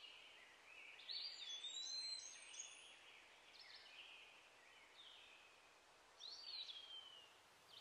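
Faint birdsong: several short whistled calls that sweep up and down in pitch, loudest about a second in and again near the end, over a soft outdoor hiss.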